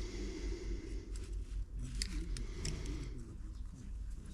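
A brief hissing rustle, then a few light clicks and taps from small metal parts and hand tools being handled, over a steady low hum.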